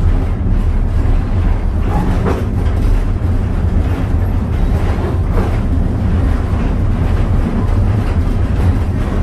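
Steady low rumble of a steam-hauled passenger train heard while riding aboard. Two brief higher-pitched sounds come about two and five seconds in.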